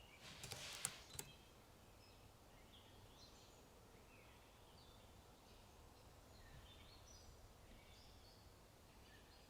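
Faint birds chirping in short, scattered notes, with a quick burst of keyboard typing clicks about half a second in.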